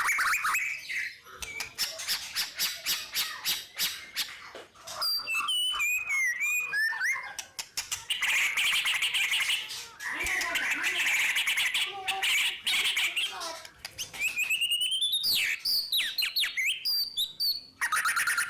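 White-rumped shama (murai batu) singing a long, unbroken song: fast rattling trills alternate with clear whistled glides that rise and fall, and a dense buzzy trill in the middle.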